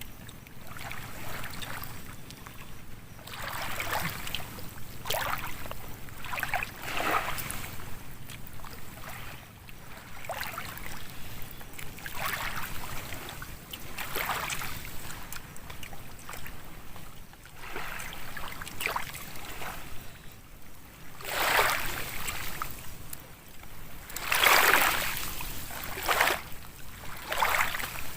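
Water washing and splashing in uneven surges every second or two, like small waves, with the strongest surges near the end.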